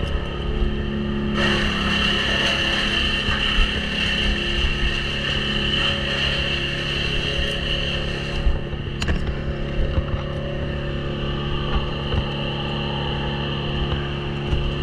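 Wood chipper's engine running steadily. From about a second and a half in to about eight seconds there is a louder, harsher grinding stretch, typical of branches being fed through and chipped.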